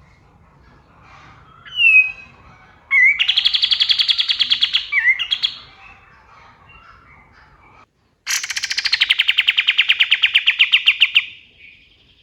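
Kapas tembak songbird singing: a short slurred whistle, then two loud rapid rattling trills of about ten sharp notes a second, each two to three seconds long. Faint chirps of other birds sit behind them.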